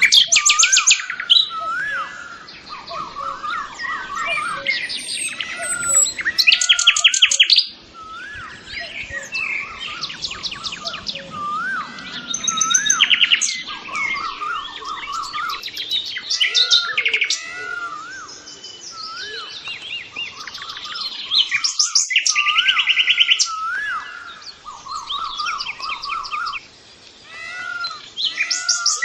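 Songbirds chirping and singing continuously, with bursts of rapid high trills and repeated short rising-and-falling whistled notes.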